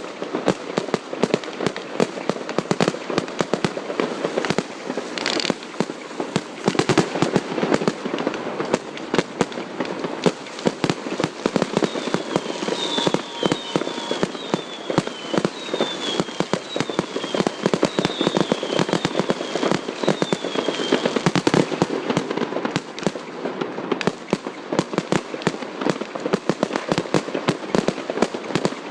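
Fireworks going off without a break: a dense stream of bangs and crackling pops. About halfway through, a run of short falling whistles sounds over the bangs for several seconds.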